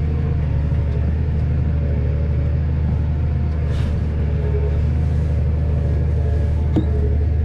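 A vehicle engine running steadily with a low rumble, and a single sharp click near the end.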